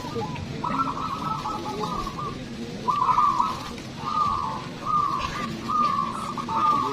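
Perkutut (zebra doves) cooing: a string of short trilled coos, about six of them, one every second or so, over a low background murmur.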